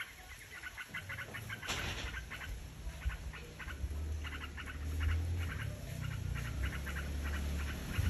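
Small bird calling in rapid trains of short, high chattering notes, repeated again and again, with a brief hiss about two seconds in and a low rumble underneath from about halfway through.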